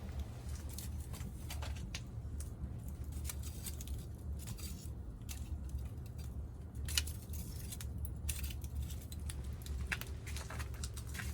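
Wood fire burning in a Picogrill fire pit, crackling with irregular sharp pops and snaps over a steady low rumble.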